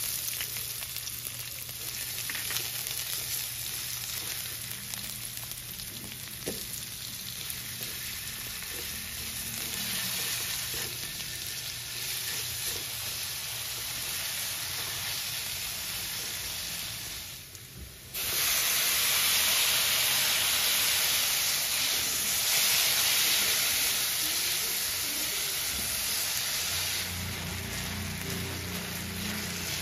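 Chopped onion and garlic sizzling in hot oil in a wok, stirred with a spatula. About 18 seconds in, the sizzle cuts out briefly and returns louder, now with chopped tomatoes frying in the pan.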